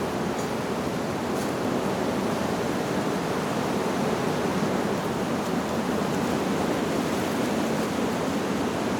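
Wind blowing steadily through leaves: an even rushing noise with no distinct gusts or chime notes.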